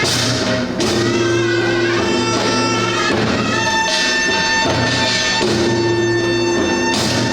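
Korean traditional folk music accompanying the Jindo drum dance: long held, reedy melody notes over occasional sharp drum strikes.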